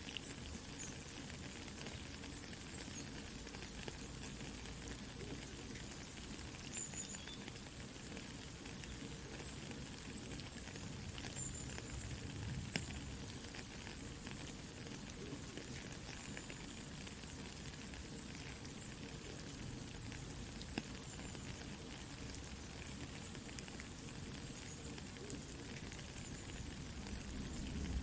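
Steady soft rain mixed with a campfire crackling, with small scattered pops and ticks over an even hiss.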